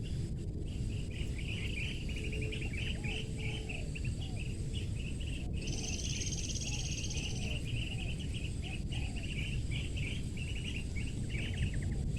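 Small birds chirping and trilling on and on, with faint low rising-and-falling cooing notes repeating underneath, as from doves, over steady low rumbling background noise. A thin high whine joins in for about a second and a half midway.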